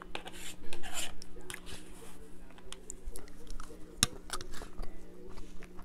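Close-miked chewing and mouth sounds of someone eating fried rice, with small clicks and scrapes of a plastic fork on a paper plate; one sharp click about four seconds in.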